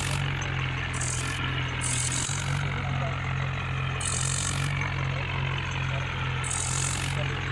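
Tractor engine running steadily at idle, with short bursts of high hiss every second or two.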